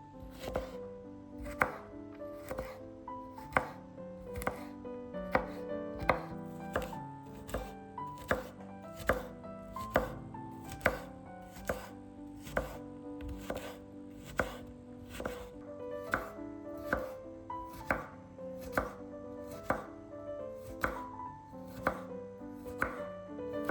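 Kitchen knife chopping on a cutting board, sharp strokes at an uneven pace of about one to two a second, over soft background music.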